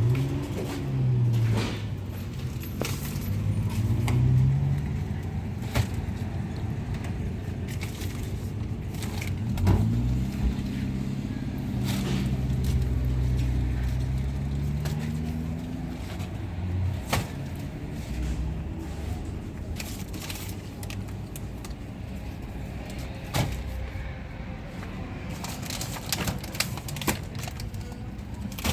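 A motor vehicle's engine running, its pitch rising and falling several times as it speeds up and slows down, with scattered sharp clicks and knocks.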